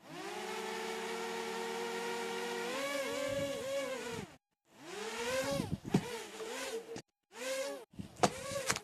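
Small quadcopter drone's electric motors whining as the propellers spin. The pitch holds steady for about four seconds, then wavers up and down as the drone flies. It cuts out briefly twice and picks up again, with two sharp knocks in the second half.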